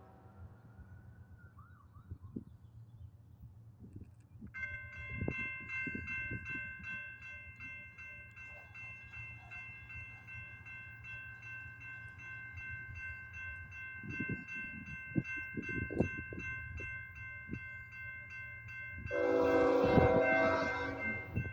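Railroad grade-crossing bell starts ringing about four seconds in, a fast, steady, even ringing, over the low rumble and knocks of a passing BNSF double-stack freight train. Near the end the locomotive's horn sounds one loud blast of about two seconds.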